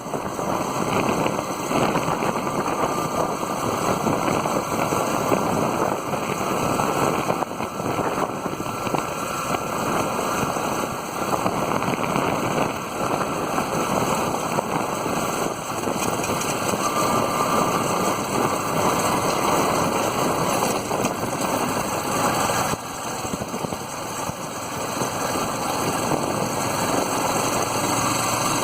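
Steady rumbling engine and rushing noise of a moving motor vehicle, holding an even level throughout.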